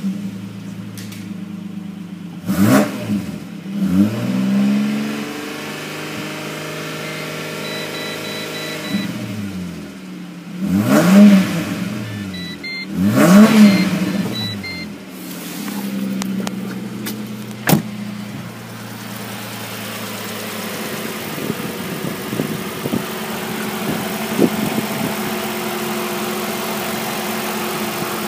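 Holden Commodore VY's 3.8-litre V6 idling, with the throttle blipped four times so the revs rise and fall quickly, then settling back to a steady idle. A single sharp click comes partway through.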